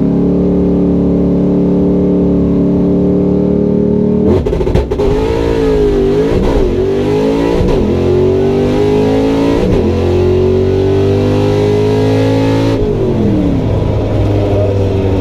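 Drag car engine held at steady revs, then launching about four seconds in. The pitch climbs and dips briefly at each gear change, and the note falls near the end as the driver lifts off.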